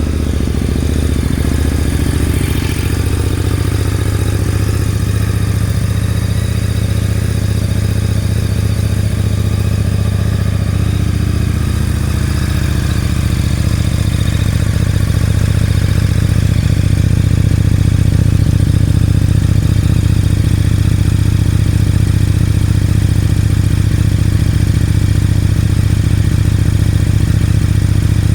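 A 2018 KTM 1290 R's V-twin engine idling steadily just after a cold start. Its idle eases slightly lower about ten to fourteen seconds in as the cold-start fast idle settles.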